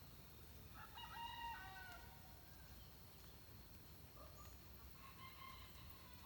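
A rooster crowing faintly, twice: one crow about a second in and another beginning near the end.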